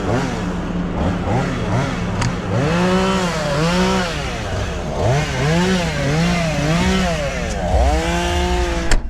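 Chainsaw revved up and down over and over, its pitch rising and falling in quick repeated swells, over a steady engine drone. A sharp click near the end.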